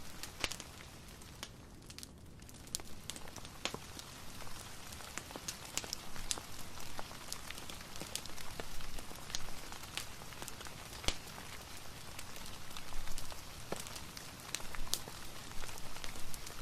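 Steady rain hiss mixed with a crackling wood fire: irregular sharp pops and ticks scattered over the rain, which thins briefly about two seconds in.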